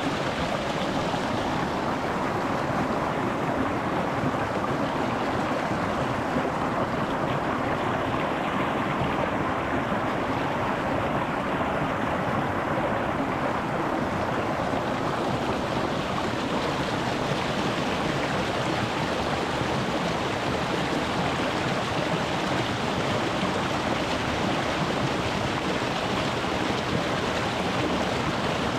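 Shallow rocky mountain stream flowing and burbling over stones, heard close to the water surface as a steady, full rush.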